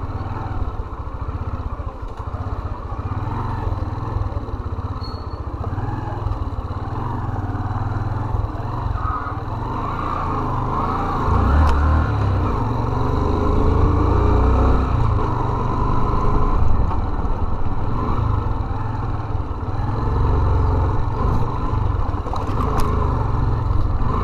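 Small-capacity motorcycle engine running as the bike is ridden, muffled through a sealed GoPro housing. It grows louder for several seconds around the middle, then settles again.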